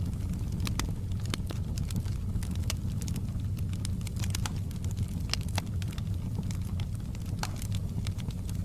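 Wood fire crackling and popping irregularly over a steady low rumble.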